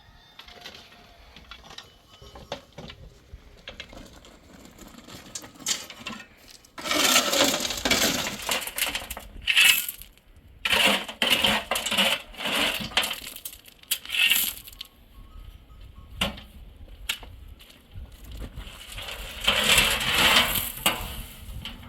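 Pebbles clattering and scraping in three bursts lasting a few seconds each, with scattered sharp clicks between them, as when stones are shovelled or tipped out.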